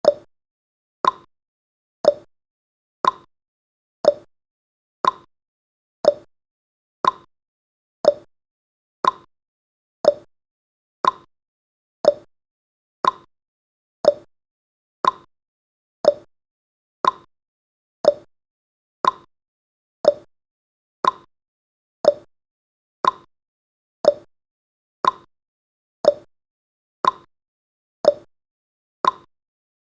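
A countdown timer's clock-ticking sound effect: one short tick every second, alternating a lower tock with a higher tick.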